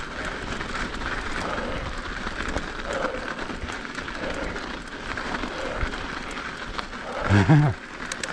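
Mountain bike riding over hard-packed snow: the tyres make a steady crunching hiss, with scattered small clicks and rattles from the bike. A brief voice sound comes near the end.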